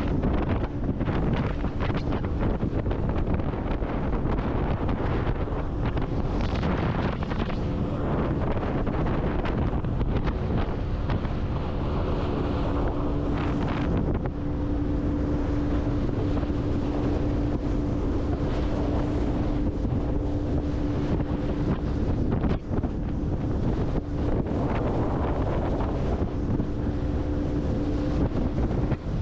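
Wind buffeting the microphone on a boat, with a faint steady hum from the boat's motor underneath, strongest from about halfway on.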